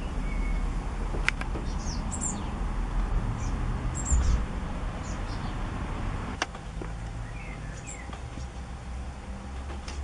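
Small birds giving brief, thin, high chirps every second or two over the steady trickle of a garden fountain and a low background rumble, with a couple of faint sharp clicks.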